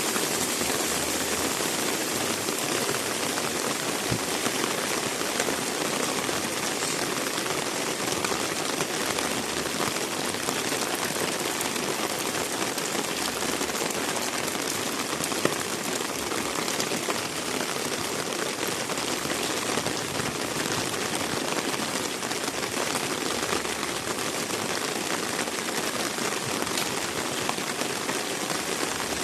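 Heavy rain falling steadily: a dense, even hiss of rain on the ground and surfaces, with now and then a sharper single drop hit.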